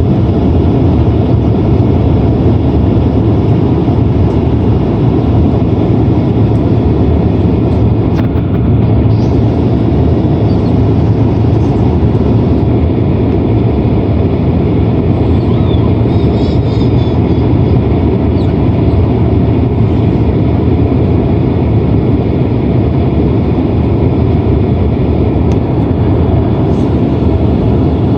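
Steady low roar inside the cabin of a Boeing 767-300ER airliner: engine and airflow noise, even in level throughout.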